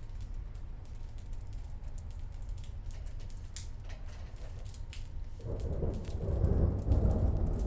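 Thunderstorm: steady rain with scattered close drips, and about five and a half seconds in a roll of thunder builds and grows louder.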